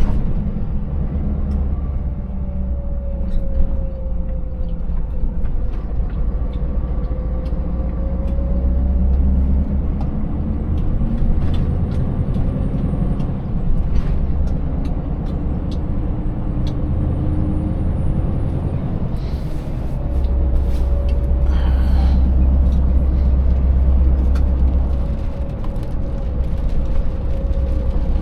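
Scania 590S V8 truck engine running steadily, its pitch drifting slowly down and up with road speed, with scattered knocks and rattles as the empty rig crosses broken road. A brief hiss of air about two-thirds of the way through, like an air brake.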